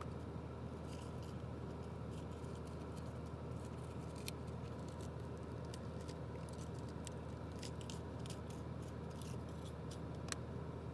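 Scattered light clicks and taps from small plastic toy parts being handled, over a steady low hum. A sharper click comes about four seconds in and another near the end.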